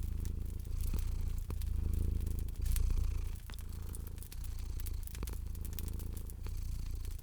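Domestic cat purring steadily, the low rumble swelling and easing with each breath, over the irregular snaps and crackles of a wood fire.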